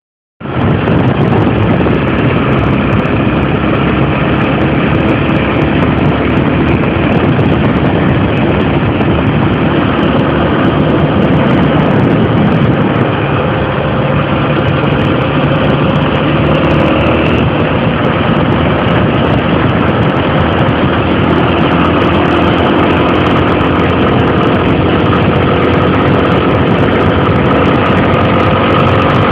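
Honda XR 250 Tornado's single-cylinder four-stroke engine running steadily with the motorcycle under way, under a dense rushing noise. It cuts in abruptly about half a second in, and its pitch drifts only slightly.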